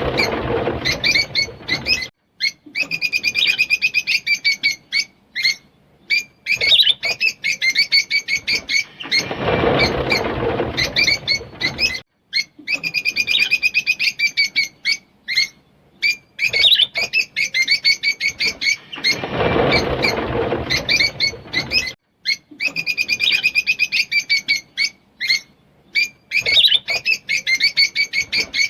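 Rosy-faced lovebirds chattering in fast runs of shrill chirps, broken by rougher, lower stretches. The sequence breaks off briefly and starts over about every ten seconds.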